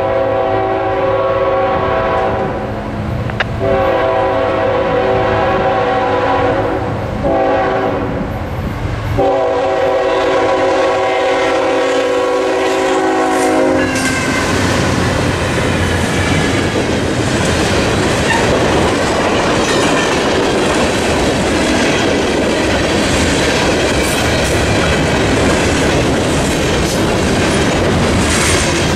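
Norfolk Southern freight train's GE ET44AC lead locomotive blowing its horn in the grade-crossing pattern: two long blasts, a short one, then a long one. About halfway through the horn stops, and the locomotives and freight cars pass over the crossing with a steady noise of wheels running on the rails.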